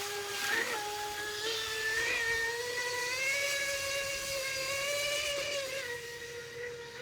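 Whine of a brushless electric motor driving the water-jet unit of an RC jet boat, steady in pitch. It rises a little about three seconds in as the throttle opens, then falls off near the end.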